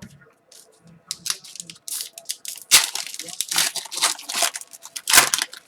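A foil trading-card pack wrapper being torn open and crinkled by hand, in a string of crackly tears and rustles.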